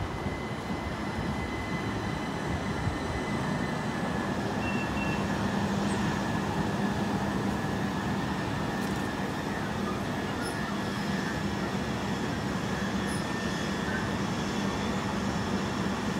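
Train running on the line, a steady rumble with a constant low hum.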